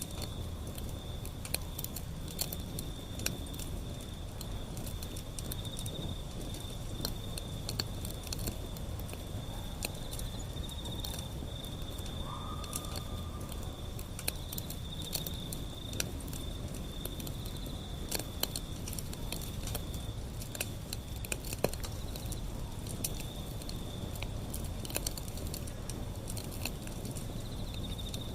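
Wood fire burning with frequent sharp crackles and pops over a low steady rumble. A steady high-pitched insect trill runs underneath.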